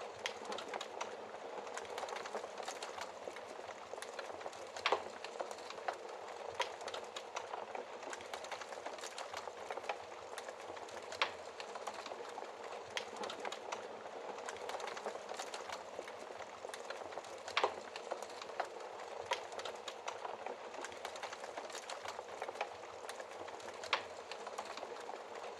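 Wood fire crackling in a fireplace: a steady hiss with irregular sharp pops, a few of them louder, every several seconds.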